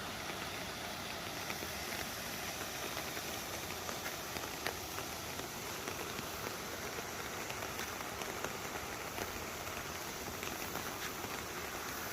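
Steady water noise: an even hiss dotted with many small splashing ticks.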